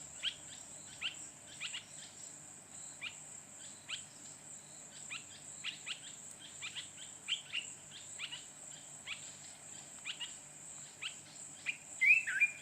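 Steady high-pitched insect trill, with many short, sharp downward chirps scattered over it and one louder call near the end.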